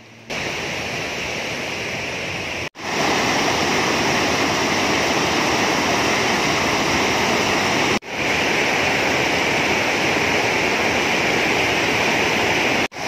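Steady rush of river water flowing over rocks, in several short stretches split by abrupt brief drop-outs about 3 and 8 seconds in and near the end.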